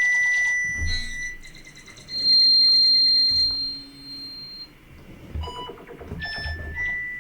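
Software synthesizer played from a keyboard: a few held, steady, pure-sounding high notes, one after another, each starting and stopping cleanly, with a low thump under some of them.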